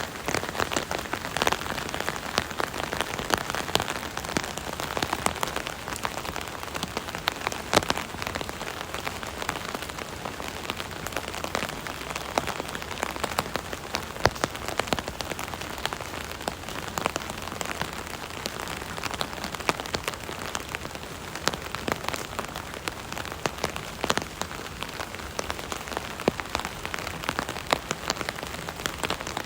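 Rain falling on an umbrella canopy heard from beneath it: a steady patter of many separate drops striking the taut fabric.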